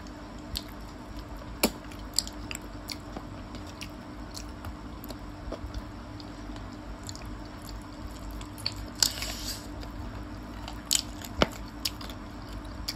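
Close-up eating sounds of people chewing gravy chicken feet: irregular wet mouth clicks and small crunches, with a brief burst of louder chewing noise about nine seconds in, over a steady low hum.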